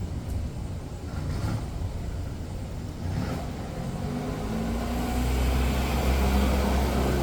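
A motor vehicle's engine approaching over a low rumble, its hum growing louder through the second half.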